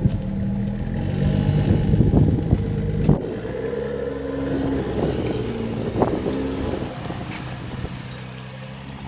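BMW M2's turbocharged straight-six engine running at low revs as the car pulls away and drives slowly past. It is loudest for the first three seconds, then settles to a steadier, quieter run that fades toward the end.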